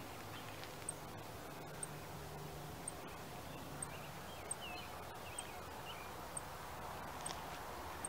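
Birds calling faintly: scattered short chirps, and a thin high note repeated about once a second, over a low steady background hum.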